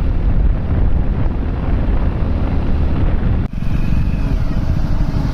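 Loud wind rumble buffeting the microphone, heaviest in the low end, with an abrupt edit cut about three and a half seconds in.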